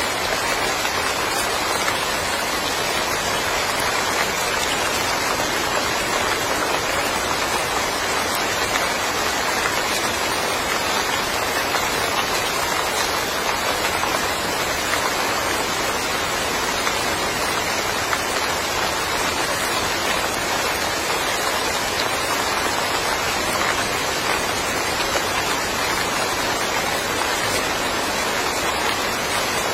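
Steady rain falling on a yard, a dense even hiss of drops with no let-up.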